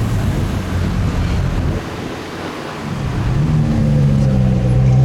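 Car engine and exhaust running loud. The sound eases off about two seconds in, then the engine note rises in pitch and holds a steady drone from about three seconds on.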